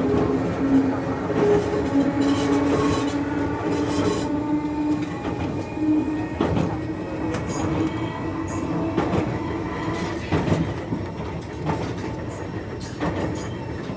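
Enoden electric train heard from inside the carriage as it runs along the line. A steady motor hum rises slightly in pitch, with scattered clicks and clacks from the wheels and rails.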